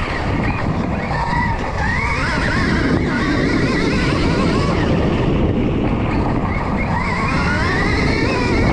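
Stark Varg electric dirt bike riding hard, its motor whine rising and falling with the throttle over a heavy rumble of wind and tyres on dirt.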